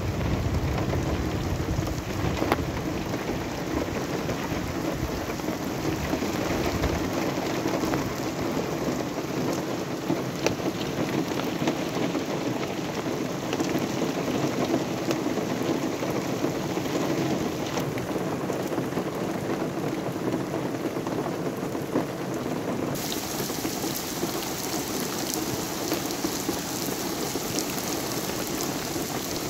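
Heavy rain pouring onto a brick-paved street and trees, a steady dense hiss of splashing. A low rumble sits under it for the first several seconds. About three-quarters through, the patter turns brighter and crisper.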